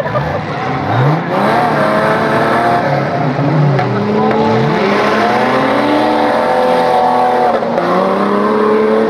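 Off-road 4x4 engines revving hard, more than one at once, their pitch climbing and dropping again and again as the vehicles work through the stage.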